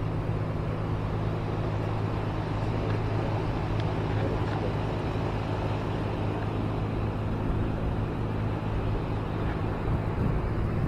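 An engine running steadily at idle, a low even hum that holds one pitch throughout.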